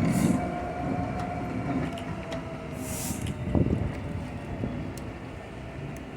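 Class 66 diesel locomotive's two-stroke V12 engine running as it moves off and away, its rumble and a steady whine slowly fading. Scattered clicks from the wheels and a brief hiss about three seconds in.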